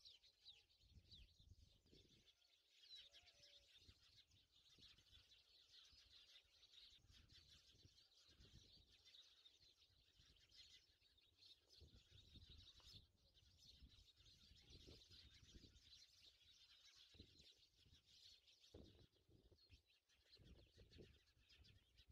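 Near silence with faint birds chirping continuously in the background.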